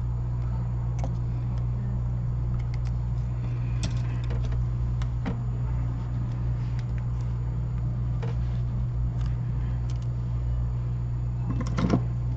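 Steady low hum under scattered light clicks and taps of small tools working on a tablet being taken apart, with a short cluster of sharper taps near the end.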